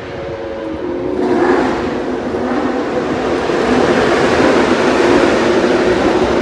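MotoGP race motorcycle engine at high revs, growing louder from about a second in as it comes closer, then staying loud.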